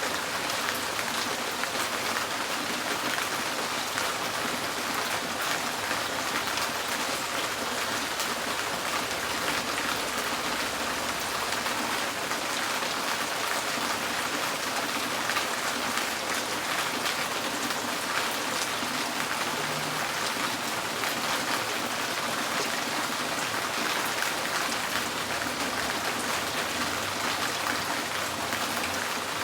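Steady rain drumming on a tin porch roof, a dense patter of individual drops.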